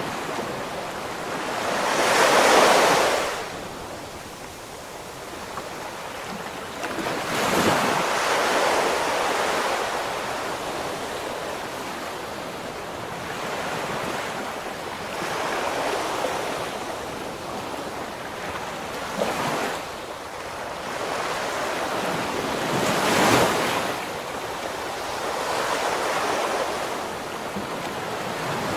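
Ocean waves breaking and washing on the shore, the surf rising and falling in surges, the biggest about two and a half, eight and twenty-three seconds in, with some wind on the microphone.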